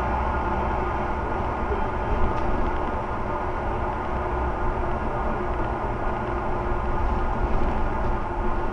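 Scania OmniCity single-deck bus's diesel engine running steadily, a low drone with a constant wash of running noise.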